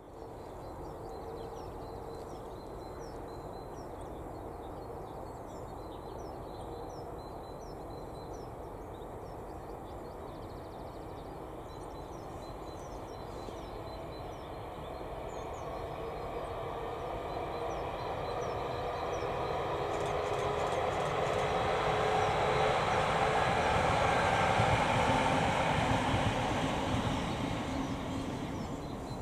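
ScotRail Class 385 electric multiple unit approaching and passing, its wheels on the rails growing louder for about ten seconds, peaking and then fading. Birds chirp faintly at first.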